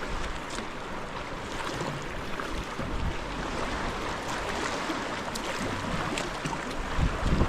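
Sea water lapping and splashing, with wind buffeting the microphone and a few small, sharp splashes scattered through.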